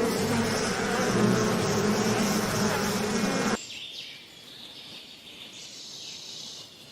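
Insect wings buzzing loudly and steadily with a low hum, cutting off suddenly about three and a half seconds in; fainter high-pitched chirping follows.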